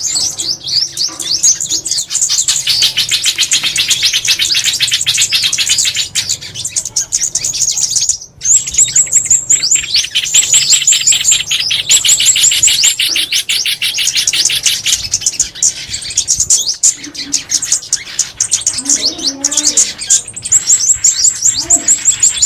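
Small songbirds twittering in long, very fast runs of high, downward-sweeping chirps, with one brief break about eight seconds in: a bird-call lure recording played to draw birds to glue traps.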